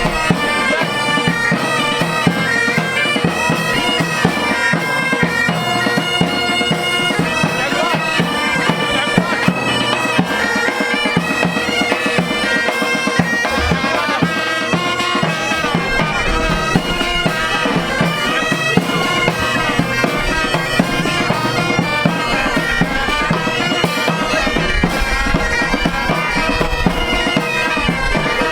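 A band of bagpipes playing a tune together over the pipes' steady drone.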